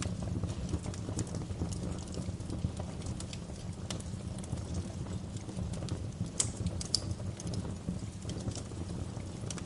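Wood fire in a fireplace crackling: irregular sharp pops and snaps over a steady low rumble of the flames, with a couple of louder pops about six and a half and seven seconds in.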